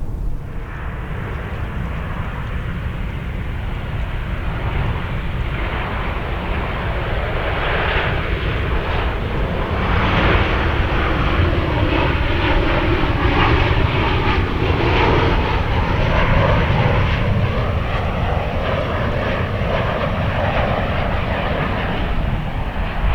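Jet airliner engines at takeoff thrust as the aircraft departs, the sound growing louder toward the middle and easing off toward the end, with a gliding engine whine as it passes.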